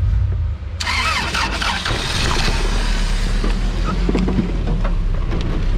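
Off-road 4x4 engine running low and steady as the vehicle crawls over trail obstacles; about a second in a loud hiss sets in suddenly and holds.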